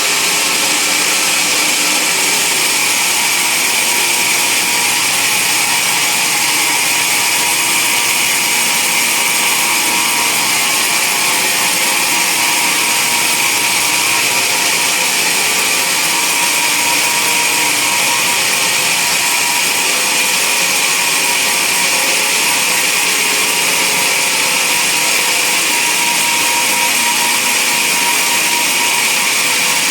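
Band sawmill running steadily as its blade cuts through a log, one continuous even sawing noise.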